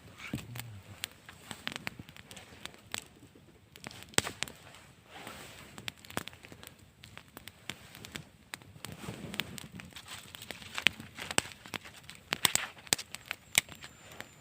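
Wood fire crackling, with irregular sharp pops of burning wood.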